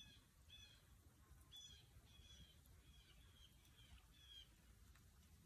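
Faint bird calls: a run of short, slightly falling high notes, about eight of them, over near-silent background.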